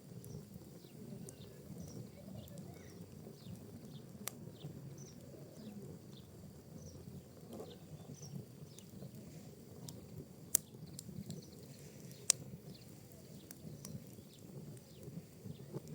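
Wood and pinecone fire burning in a fireplace: a steady low rumble of flame with small crackles and a few sharp pops, the two loudest about ten and twelve seconds in.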